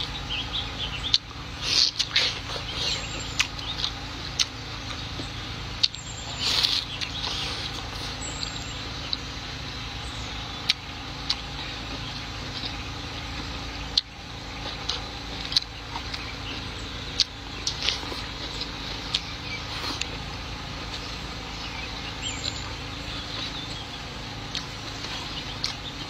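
Close-miked chewing of a mouthful of steamed pumpkin and minced pork: wet mouth sounds with sharp little clicks and smacks every second or so, over a steady low background hum.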